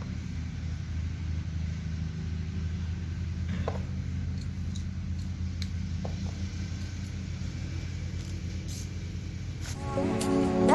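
Small engine running at a steady speed, with a few light clicks. Music comes in near the end.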